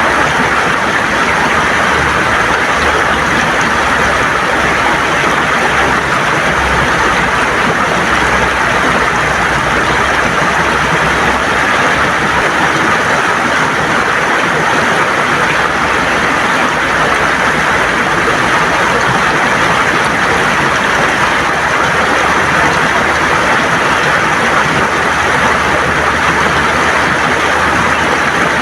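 River water gurgling over smooth stones: a steady, unbroken rush.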